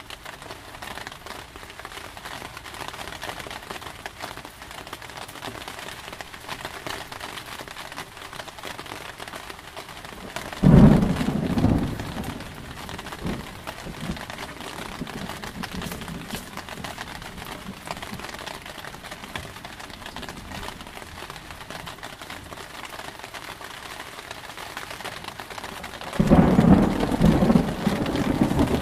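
Steady heavy rain, broken by two sudden thunderclaps: one about ten seconds in and another near the end, each rumbling on for a second or two and much louder than the rain.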